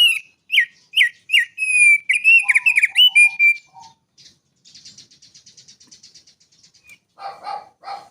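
Male thick-billed heleia (opior paruh tebal) singing: a quick run of loud, sharp, downslurred whistled notes for about three and a half seconds, then a fainter, fast rattling trill, and a few harsher notes near the end.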